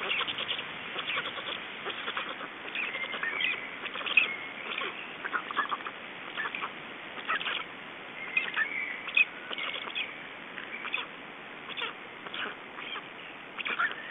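Birds calling: a string of short squeaky chirps and a few gliding, trilled phrases at irregular intervals, over a steady hiss.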